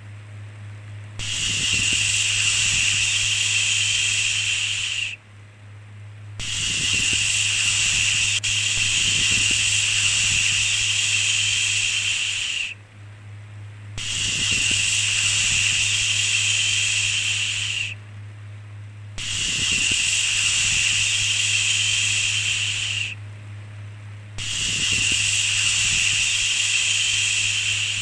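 Repeated long 'shhh' shushing sounds, each held about four seconds with a pause of a little over a second between, five in all, over a steady low hum.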